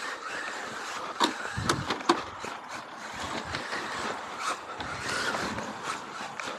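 A 1:10 RC rally car (Tamiya XV-01) driving hard on pavement: its electric motor whine rises and falls with the throttle over tyre and road noise. There are several sharp knocks in the first two seconds.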